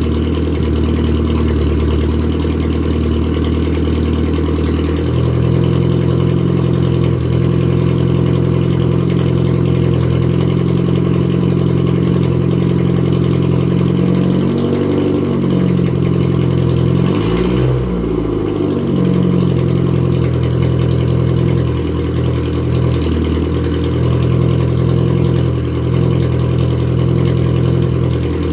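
Datsun 1000's straight-piped A10 1.0-litre four-cylinder engine idling steadily while warming up after a cold start. It gets two brief throttle blips, a small one about halfway through and a sharper one a little later, each rising and falling back to idle.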